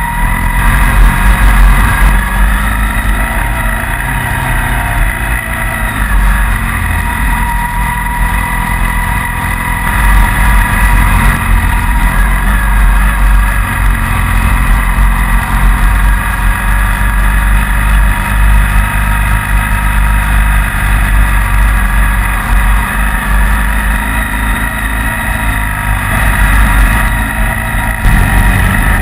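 Motorcycle-and-sidecar engine running steadily at road speed on a climb, with a constant low rumble of wind and road noise.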